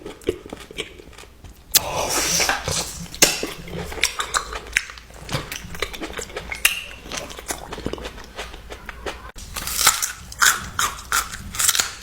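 Close-miked eating: chewing and biting, a fast irregular run of wet clicks and crunches, busiest about two seconds in and again near the end.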